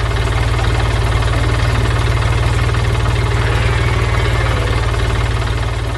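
Engine sound effect of a cartoon forklift, running steadily with a fast, even low chug.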